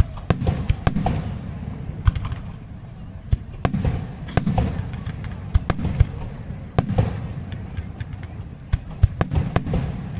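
Aerial fireworks exploding in rapid succession, a dense string of sharp bangs and cracks, some in quick clusters, over a rumbling roll of echoes.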